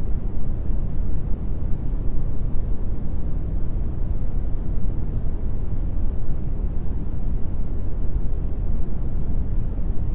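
Steady brown noise: an even, deep rumbling hiss, strongest in the bass and fading toward the treble, with no changes or events.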